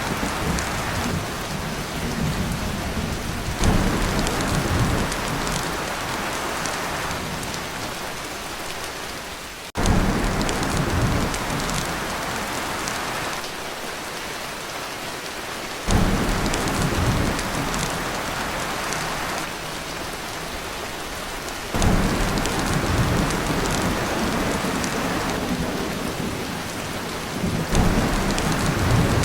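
Heavy rain pounding on a tin roof with thunder rumbling. The low rumble swells up suddenly about every six seconds, then slowly eases back under the steady rain.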